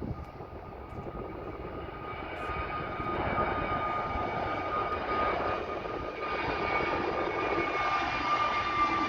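An easyJet jet airliner's engines running: a steady high whine over a rushing noise that grows louder from about three seconds in.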